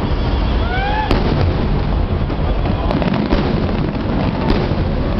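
A fireworks finale barrage: booms running together into a continuous low rumble, with sharp cracks about a second, three seconds and four and a half seconds in, and a rising whistle about a second in.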